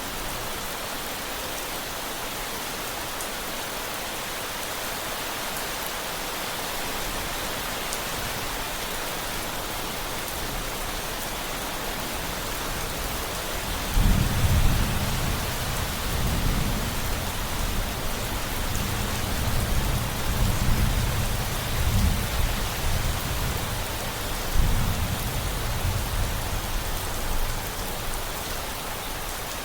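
Steady rain hissing down, with a thunderclap about halfway through that rolls on as deep, swelling rumbles for over ten seconds before fading.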